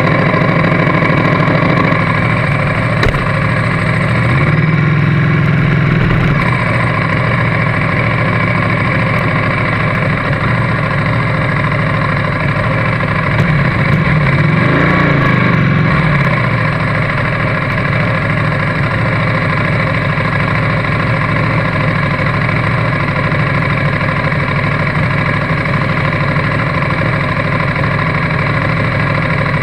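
Motorcycle engine idling steadily, heard close from the bike the camera is mounted on. Other motorcycles ride up alongside, with an engine swelling about four seconds in and another rising and falling in pitch about halfway through.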